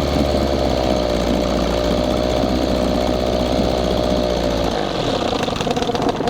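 1968 6 hp Evinrude two-stroke outboard motor running in a test bucket, its pitch wavering; near the end the low rumble drops away as the engine winds down and stops.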